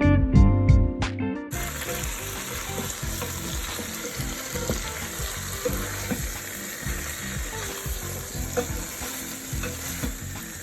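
A short bit of plucked-string background music, cut off about a second and a half in by a pan of spiced chicken and sweet potatoes sizzling on the stove: a steady sizzle with scattered small crackles.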